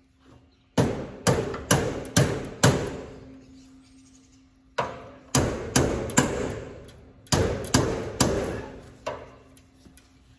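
Repeated hammer blows, about two a second, in three runs of four or five strikes, each blow ringing briefly before the next.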